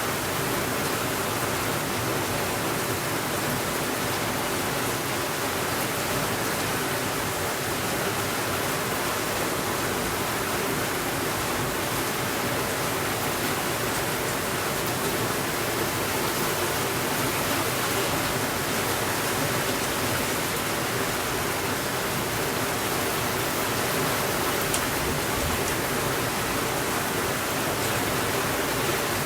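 Steady rainfall, an even, unchanging hiss without thunder.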